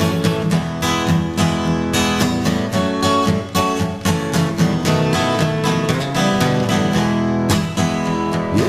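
Acoustic guitar strumming chords in a steady rhythm: the instrumental break of a folk-pop song.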